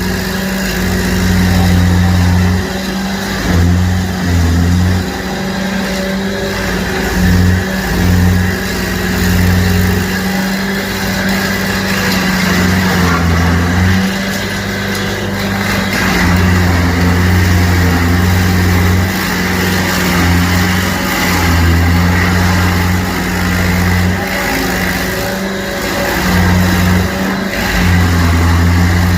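Stump grinder running steadily at working speed while grinding out a tree stump, with a deeper low drone that drops in and out every few seconds.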